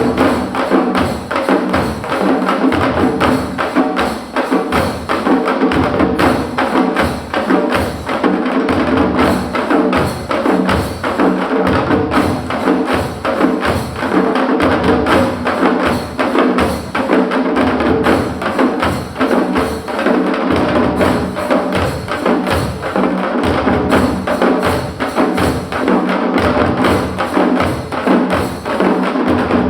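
Ensemble of parai frame drums, the traditional Tamil drum, beaten together in a fast, driving rhythm of dense, sharp strikes that keeps going without a break.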